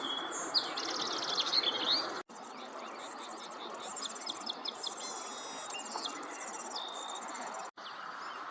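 A flock of bushtits calling: many short, high, thin twittering notes over a steady background hiss. The sound cuts out completely twice, briefly.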